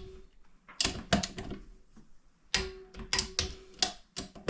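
Metal engine and transmission parts of a small ATV being handled on a bench: clusters of sharp clicks and knocks, some with a brief metallic ring, as gears and parts are fitted together.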